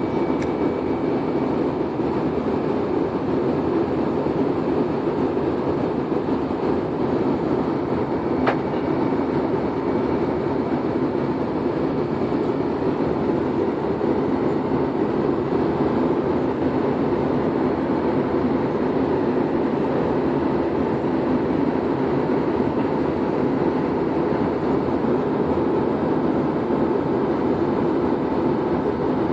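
Steady cabin noise of an airliner in flight, a constant rumble of engines and airflow heard from inside the cabin. A single sharp click sounds about eight and a half seconds in.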